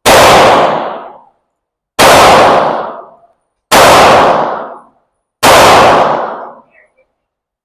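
Four 9mm pistol shots from a Glock 45, spaced about two seconds apart. Each ends in a long echo off the walls of an indoor range.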